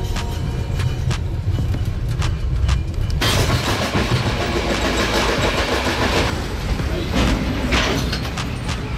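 Steady low rumble of a moving passenger train heard from inside the carriage. About three seconds in, a loud rush of air and track noise comes in suddenly, as through an open window, and eases a few seconds later.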